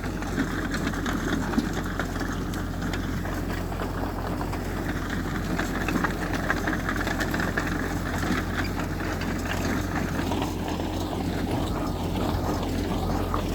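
Diesel engine of heavy earthmoving machinery running steadily, a constant low rumble with scattered light knocks.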